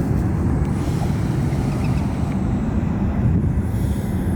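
Steady low rumble of jet airliner engines at an airport.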